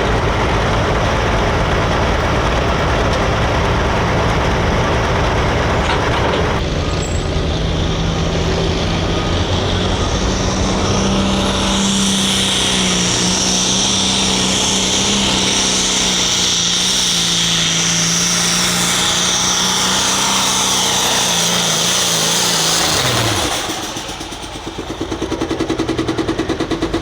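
Hot farm pulling tractor's turbocharged diesel engine running flat out at a steady high pitch under load during a pull, with a high hiss or whine over it. About 23 seconds in the engine winds down, falling in pitch, and settles to a quieter, pulsing low-speed run.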